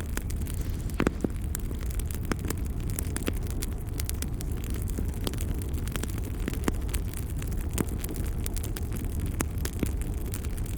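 Wood fire crackling steadily: irregular sharp pops and snaps over a low, constant rumble of the flames, with a louder pop about a second in.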